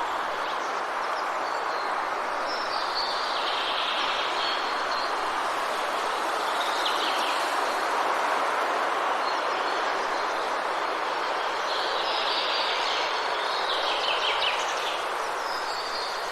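Forest ambience: a steady rushing noise, with songbirds chirping and trilling in short bouts several times over it, the longest near the end.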